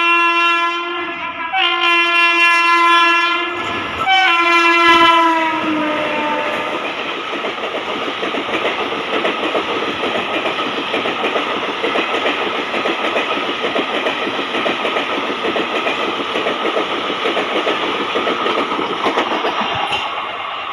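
Indian express train's locomotive horn sounded three times in the first six seconds, the third blast dropping in pitch as the locomotive passes, followed by the steady rumble and clatter of the coaches running past at speed.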